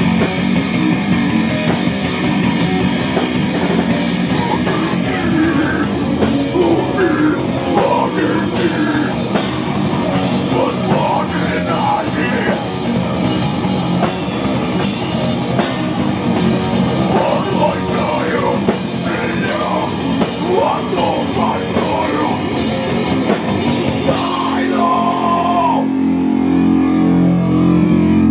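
Loud rock music with electric guitar and drums, a wavering lead line over a dense backing. Near the end it settles on one held chord that then stops abruptly.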